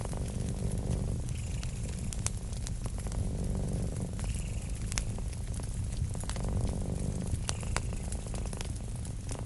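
A cat purring, a low rumble that swells and eases with each slow breath, over a crackling wood fire with frequent sharp pops.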